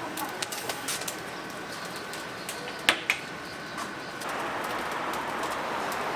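Oak firewood fire crackling, with scattered sharp pops, two of them loudest near the middle. About four seconds in, a steady sizzling hiss sets in.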